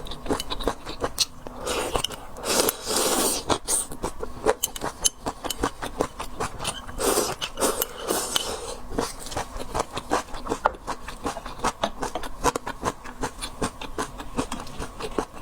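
Close-miked eating of seafood: rapid crackling and clicking of chewing and shell handling, with two longer wet, noisy stretches of slurping or sucking about two and seven seconds in.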